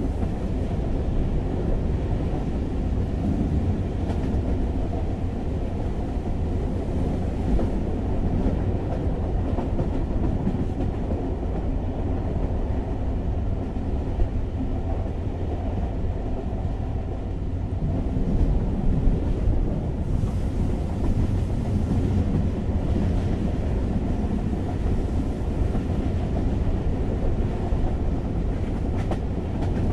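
Passenger train carriage heard from inside while running: a steady low rumble of wheels on rails that swells slightly a little past the middle.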